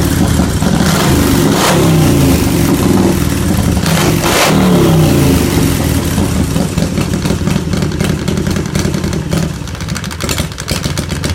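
Loud motorcycle engine running, revved up twice in the first five seconds and then dropping back to a lower, uneven idle.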